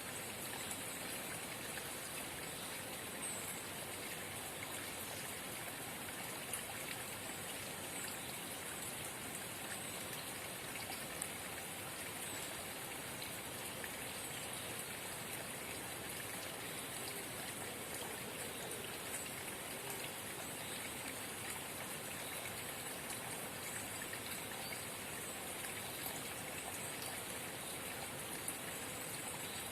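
Forest spring babbling and trickling steadily, with a constant wash of running water and faint scattered drip-like ticks.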